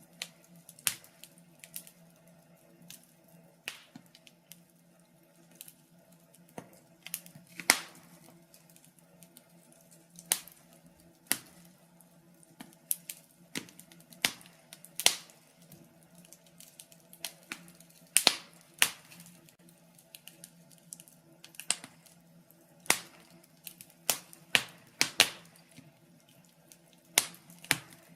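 Wood fire crackling: burning logs give off irregular sharp pops and snaps at uneven intervals over a faint steady background, with a quick run of louder pops about three quarters of the way through.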